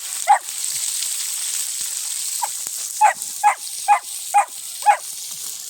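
A dog barking: one bark just after the start, then a run of five quick barks about half a second apart in the second half, over a steady high hiss.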